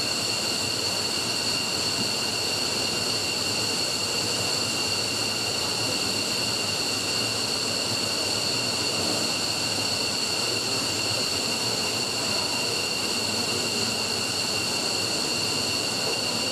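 F-15's Pratt & Whitney F100 turbofan engine running steadily in a ground run-up: a constant jet roar with a steady high-pitched turbine whine over it.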